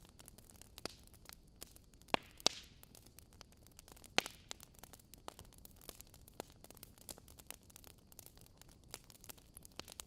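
Wood fire crackling in a fireplace: a steady run of small snaps over a low hiss, with a few louder pops about two, two and a half and four seconds in.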